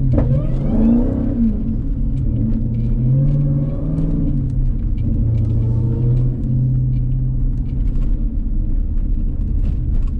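Jeep Grand Cherokee Trackhawk's supercharged 6.2-litre V8 running at low revs as the SUV is driven slowly, its low rumble rising and falling gently in pitch with the throttle.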